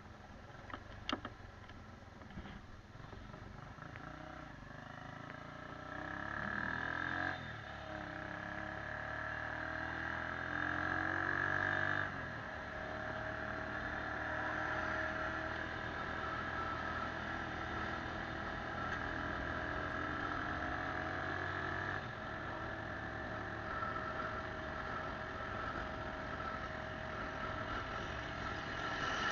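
Motorcycle engine running while riding: it pulls up in pitch with a gear change about seven seconds in, drops back about twelve seconds in, then runs steadily at cruising speed.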